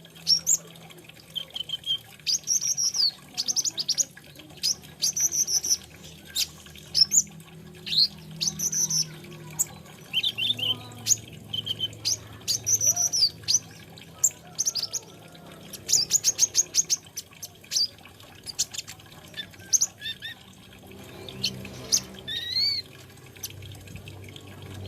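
Small sunbird, the 'kolibri ninja', singing a busy, varied song of quick high chirps, short rising and falling notes and rapid ticking runs. A faint low hum runs underneath.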